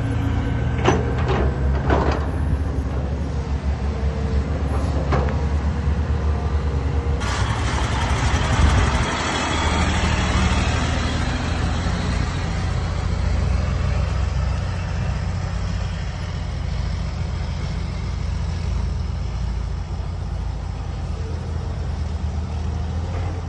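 Caterpillar 320D hydraulic excavator working, its six-cylinder diesel engine running steadily, with a few metallic knocks in the first few seconds. About seven seconds in, a loud rushing hiss sets in over the engine and slowly dies away.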